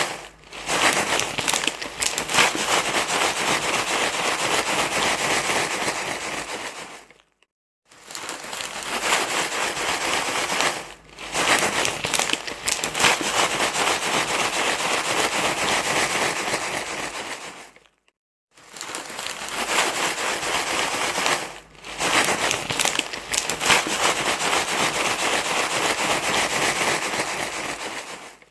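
Dense, crackly crinkling rustle, like material being crumpled close to the microphone, running in long stretches broken by brief gaps, twice falling fully silent for about half a second.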